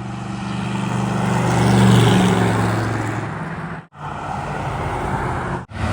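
A classic car's engine running as it drives past, growing louder to about two seconds in and then fading. After an abrupt cut near four seconds, another car engine runs steadily.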